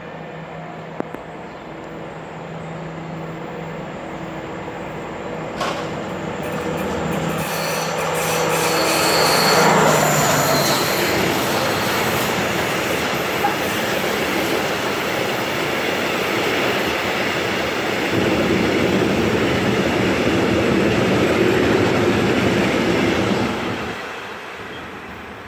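Vossloh MaK G 1206 diesel-hydraulic locomotive approaching with its engine running, its steady drone growing louder until it passes about ten seconds in. The lime wagons then roll by with steady wheel-on-rail noise and some wheel squeal. The noise drops away a couple of seconds before the end as the train's tail passes.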